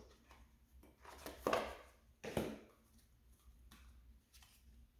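Tarot or oracle cards being handled and drawn from the deck: a few short, soft card rustles and slaps, the two clearest about one and a half and two and a half seconds in.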